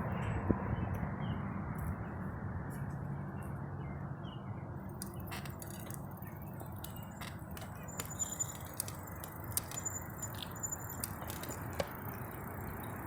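Bicycle riding: steady low road and wind rumble, with scattered light clicks and rattles from the bike starting about five seconds in.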